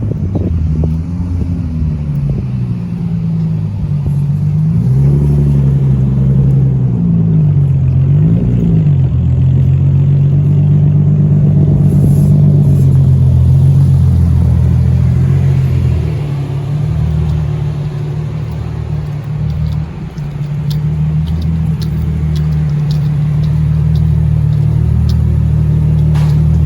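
Car engine running loud and low, its pitch rising and falling several times as it revs or pulls away, then holding steady.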